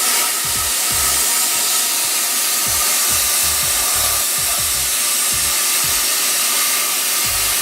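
Electric welder arc running in one long continuous bead, a steady loud sizzling hiss with faint irregular low knocks under it.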